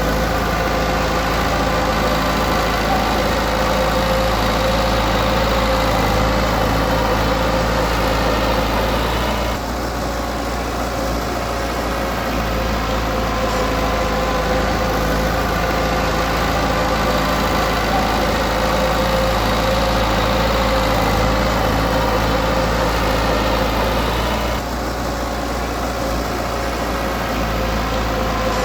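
Komatsu D20P bulldozer's diesel engine running steadily, easing off briefly twice, about ten seconds in and again near the end.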